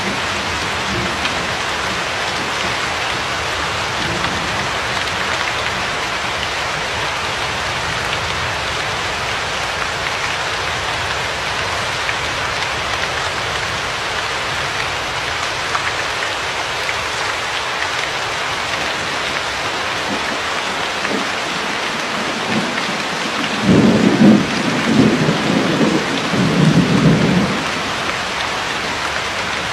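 Steady rain falling in an even hiss. Low rolling thunder rumbles over it for about four seconds near the end.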